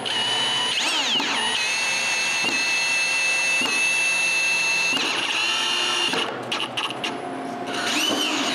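Power drill driving screws into wood, its motor whining steadily for about five seconds with a brief dip in speed early on, then a short second run near the end.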